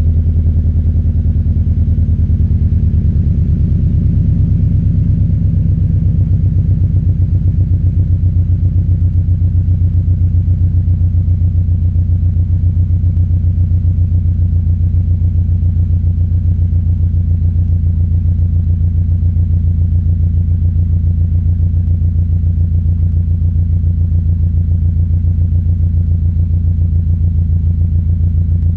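2013 Subaru BRZ's 2.0-litre flat-four boxer engine idling steadily after a cold start, breathing through catless Tomei equal-length headers and an Invidia N1 exhaust, with no revs.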